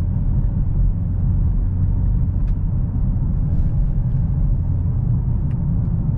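Dodge Challenger Hellcat's supercharged 6.2-litre V8 and road noise heard from inside the cabin while cruising: a steady low rumble. The engine is still in its break-in period.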